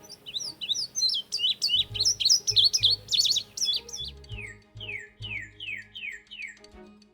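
Songbird singing: a quick jumble of high chirps, then a run of about seven whistled notes that each slide downward, over soft background music.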